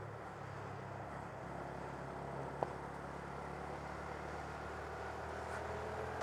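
Honda Grom's 125cc single-cylinder engine running at a steady pitch while the bike cruises along. A single short click sounds about two and a half seconds in.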